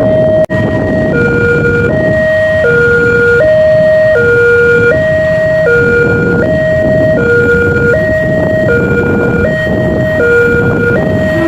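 Railway level-crossing warning alarm sounding an even two-tone hi-lo pattern, each tone held about three-quarters of a second, over a low rumble.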